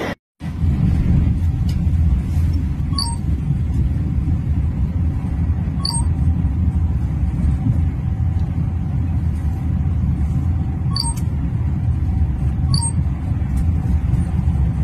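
Steady low rumble of a Vande Bharat Express train running at about 180 km/h, heard from inside a passenger coach. A few faint, short ticks sound now and then.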